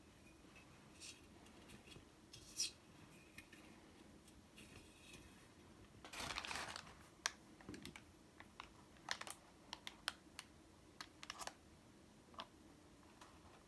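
Quiet handling sounds: scattered light clicks and taps, with a brief rustle about six seconds in, over a faint steady hum.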